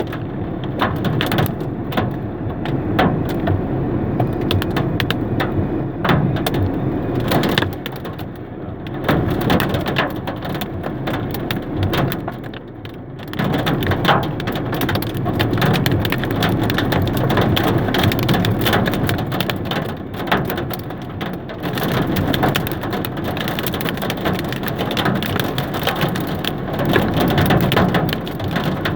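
Hail falling with heavy rain: a dense, constant clatter of sharp individual hailstone impacts over the rush of rain, easing briefly about halfway through.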